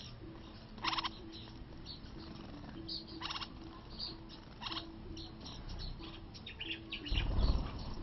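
Small birds calling: a few short rasping calls and quick high chirps, then a brief low flutter of wings about seven seconds in as the birds leave the bath.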